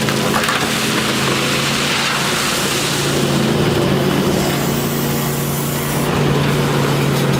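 Heavy machinery running steadily: a low, even engine hum under a dense hiss of mechanical noise.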